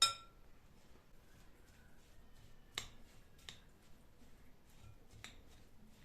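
A sharp clink with a brief ringing at the start, then a few lighter clicks and taps, as hard household objects are handled.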